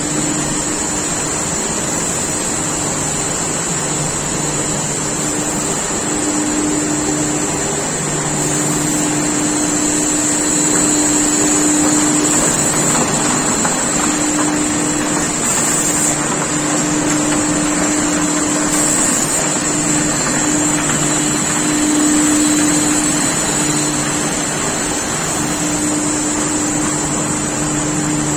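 Mezzera open-width textile washing range running: a steady mechanical hum over a constant high hiss.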